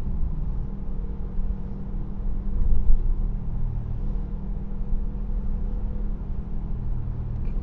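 Steady rumble of a car's engine and tyres on the road, heard from inside the cabin while driving, swelling briefly about three seconds in.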